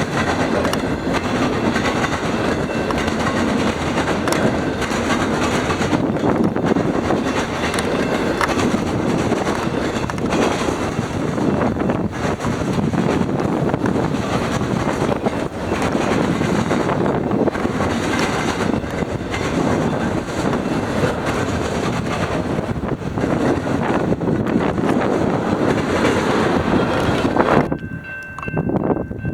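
A train's rail cars rolling past at close range, a loud steady rumble of wheels on track with a clickety-clack of wheels over rail joints. The sound cuts off abruptly near the end and gives way to a quieter one carrying a couple of thin steady tones.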